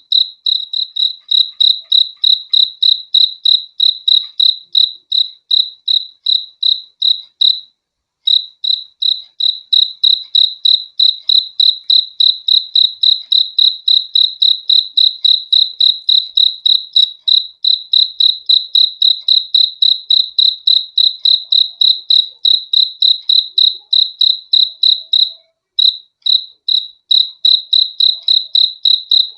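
A cricket chirping in a fast, even series of short, high chirps, about three a second, pausing briefly twice.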